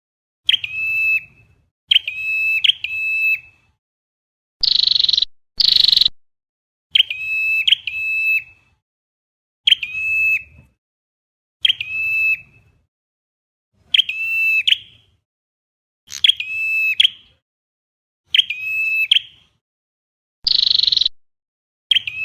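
A recorded flowerpecker call, used as a trap lure, repeating over and over: sharp high call notes roughly every one to two seconds. Harsher buzzy notes come about five and six seconds in and again near the end, and there is dead silence between the calls.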